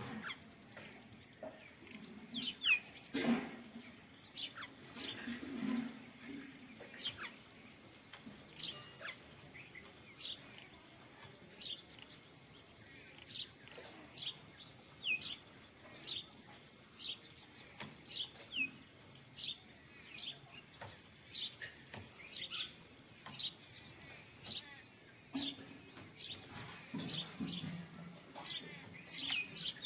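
Small bird chirping over and over, a single short high chirp about once a second, keeping a steady rhythm.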